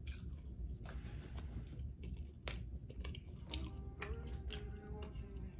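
Close-up mouth sounds of chewing french fries, with a few sharp clicks and smacks, over a low steady hum.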